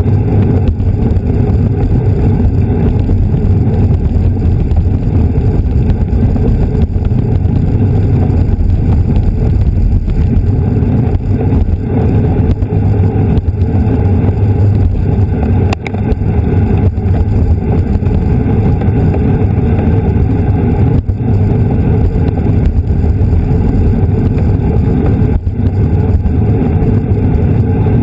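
Steady, loud wind rush buffeting a bicycle-mounted camera's microphone, mixed with tyre and road rumble from riding at racing speed.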